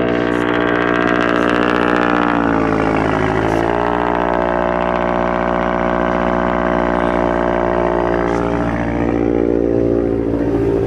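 Car engine idling steadily, with a brief dip and rise in pitch about three seconds in.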